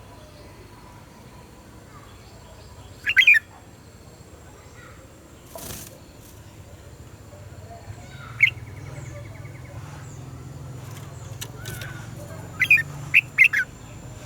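Red-whiskered bulbul giving short, loud chirping song phrases: one about three seconds in, another a few seconds later, and a quick run of three or four notes near the end, over a low steady hum.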